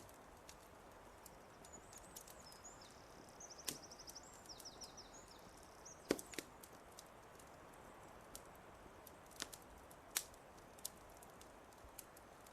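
Wood fire crackling, with scattered sharp pops and snaps over a faint steady hiss; the loudest snaps come about six and ten seconds in. Early on, a bird sings a short run of quick, repeated high notes.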